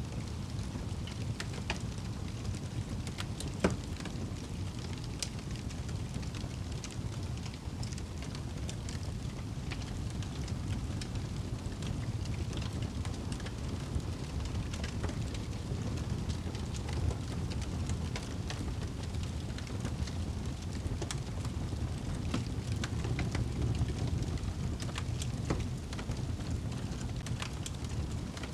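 Fireplace crackling: a steady low rumble of burning logs with scattered sharp pops and snaps, one louder pop about four seconds in.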